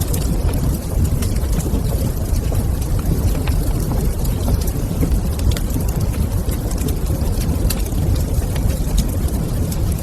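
Wood fire in a fireplace crackling: many small irregular pops and snaps over a steady low rumble of the burning fire.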